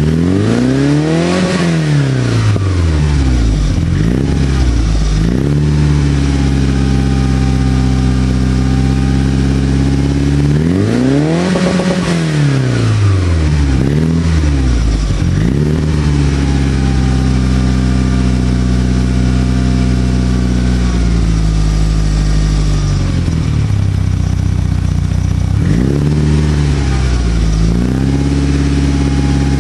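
Mitsubishi Lancer Evolution VIII MR's turbocharged 2.0-litre 4G63 inline-four, a forged build, breathing through a Milltek exhaust, idling and being free-revved. Two big revs, about a second and a half in and again about twelve seconds in, rise and fall sharply, and several shorter throttle blips come between them and near the end, with a steady idle in between.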